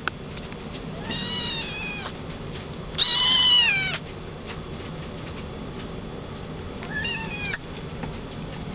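Maine Coon kitten meowing three times, each call about a second long and dropping in pitch at the end; the second call is the loudest.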